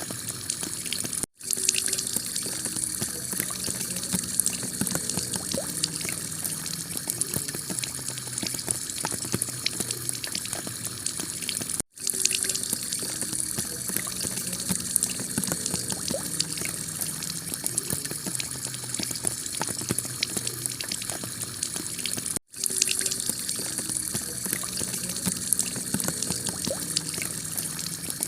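Heavy rain beating steadily on a clay-tile roof, with a dense patter of drops and water running off. It drops out for a split second three times, about every ten and a half seconds, where a looped recording restarts.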